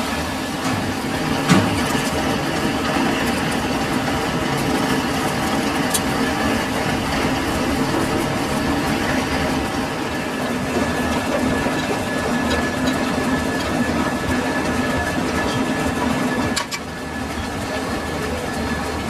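Metal lathe running with a steady mechanical hum and several held tones. There is a sharp click about a second and a half in, and the sound drops slightly and changes near the end.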